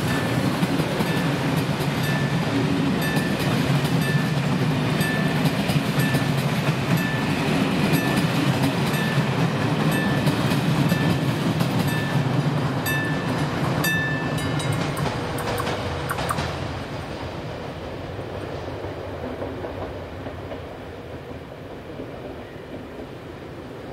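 Steam-hauled train led by ČSD class 555.0 steam locomotive 555.0030 passing over a level crossing and moving away, its wheels rumbling and clattering over the rail joints; the rumble fades from about two-thirds of the way in. The crossing's warning bell dings steadily about every two-thirds of a second and stops a little past the halfway point.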